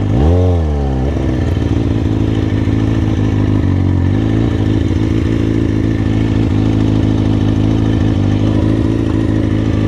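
Street motorcycle's engine revved once in a quick blip right at the start, then idling steadily, with a smaller blip of throttle about four seconds in.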